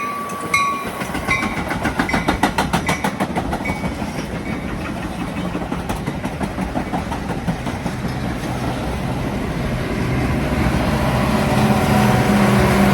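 A train passing with its wheels clicking rapidly over rail joints, after a bell that rings a few strokes and stops about a second in. Toward the end a low diesel engine hum grows louder.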